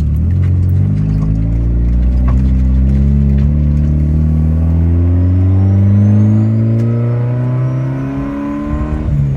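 Turbocharged Audi 1.8T four-cylinder engine pulling the car along, its revs rising slowly and then dropping near the end. A few faint knocks come through on top: the broken front differential mount clunking under load, which is hard to hear over the engine.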